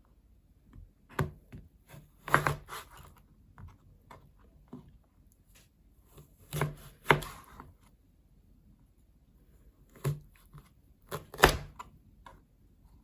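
Sharp knocks and clacks of hard objects in short clusters a few seconds apart, five groups in all.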